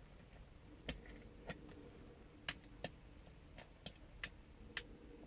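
Faint, irregular plastic clicks, about eight in all, from the small gears and drive parts of a mini radio-control toy tank being handled and turned by hand.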